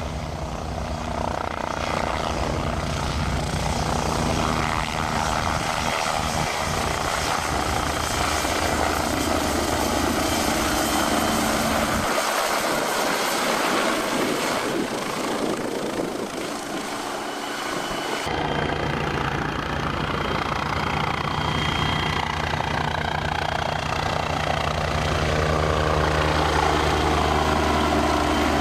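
MBB Bo 105 helicopter running, with a steady rotor beat and turbine noise. The deep low end of the rotor sound drops away for about six seconds midway, then returns.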